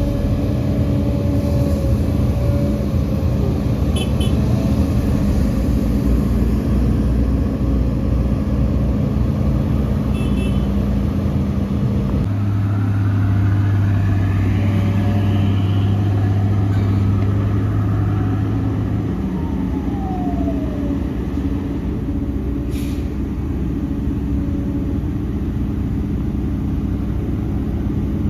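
Heavy diesel engines of earthmoving machines running steadily. A deeper engine note sets in about halfway through, with the pitch rising as an engine revs up, then a brief falling glide as it eases off.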